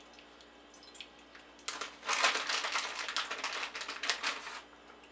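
Crinkly rustling and crackling of a cheese package being handled, starting about two seconds in and lasting about three seconds.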